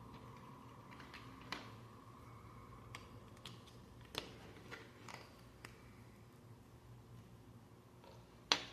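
Lego plastic pieces clicking as they are handled and pressed together, a few sharp isolated clicks spread out, the loudest near the end, over a faint steady hum.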